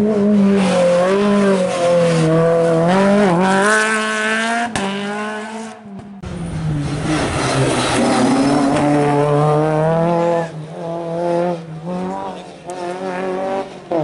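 Renault Clio rally car's engine revving hard as it accelerates past, its pitch climbing and dropping with each gear change. It cuts off abruptly a few seconds in, and a second pass follows, the engine held high and then lifted off and back on several times near the end.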